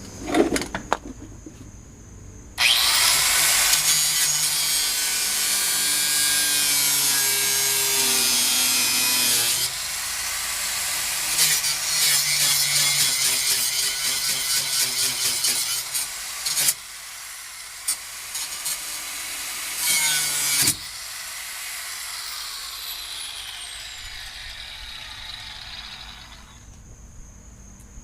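Angle grinder with a new disc working under load in long passes, with a short burst about twenty seconds in, then the disc winding down with a falling whine.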